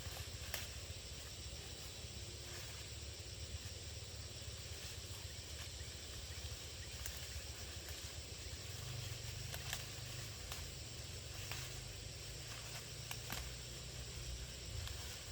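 Outdoor ambience: a steady high hiss with a low rumble underneath and scattered faint clicks.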